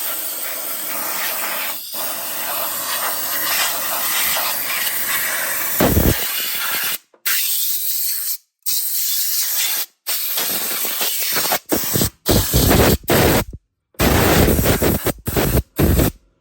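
Compressed air from an air-hose blow gun hissing as it blasts grass and debris out of a riding mower's transmission area. One long blast of about six seconds, then a string of shorter on-and-off bursts that cut off suddenly.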